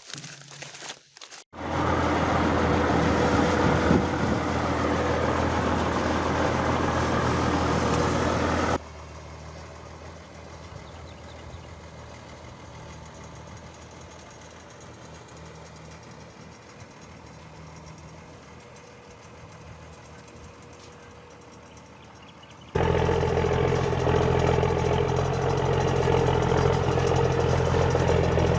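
REO 6x6 truck's engine running at a steady idle-like hum. About nine seconds in the sound drops suddenly to a much fainter hum, then jumps back to full loudness near the end.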